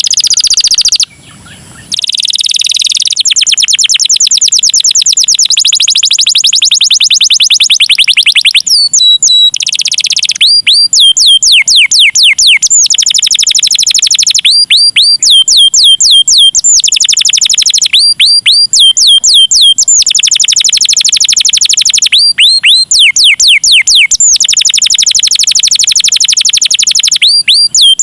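Domestic canary singing a fast, loud song: groups of quickly repeated downward-sweeping whistles alternating with long, rapid trills, with a brief drop about a second in.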